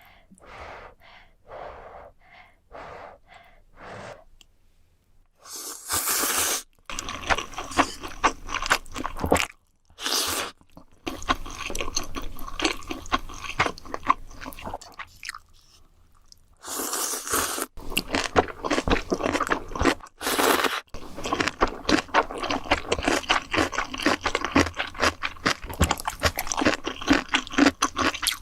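Close-miked eating of ramen: soft chewing at first, then noodles slurped in long noisy pulls about six and seventeen seconds in, with dense wet, crackly chewing between and after.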